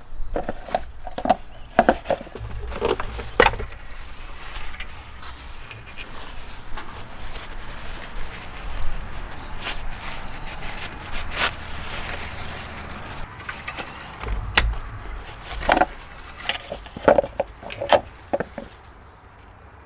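Irregular knocks, taps and clatter of hands handling parts and containers in the engine bay, over a faint low rumble.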